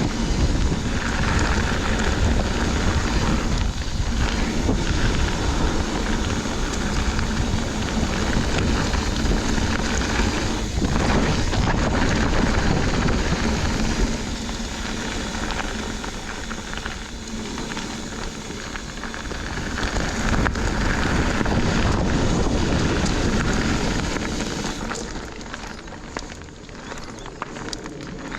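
Mountain bike riding fast along a dirt singletrack trail: a continuous rush of tyre noise and bike rattle mixed with wind buffeting the microphone, easing off a little near the end.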